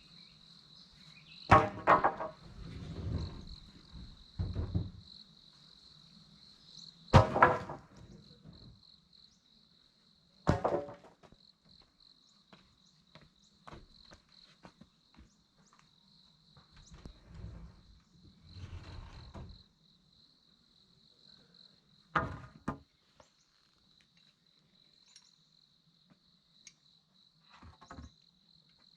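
Insects chirring steadily at one high pitch, with a few loud knocks and some rustling from work by hand in between; the strongest knocks come about a second and a half in, about seven seconds in, about ten seconds in and about twenty-two seconds in.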